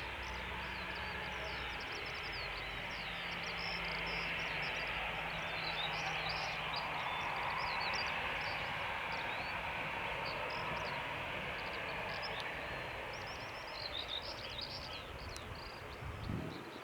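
Jet aircraft engine noise, a broad rush that swells to a peak about halfway through and then fades, with a low steady hum underneath in the first half. Many short high chirps run over it throughout.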